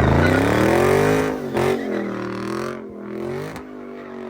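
Car engine revved hard, its pitch climbing and falling a few times, loudest in the first second or so, then holding at a steadier, quieter note near the end.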